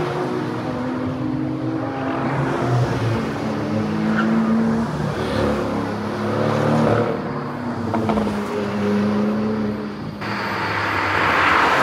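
Sports car engines accelerating along a winding road, the engine note stepping up and falling back as the cars work through the gears and bends. Near the end comes a louder rush as a car passes close.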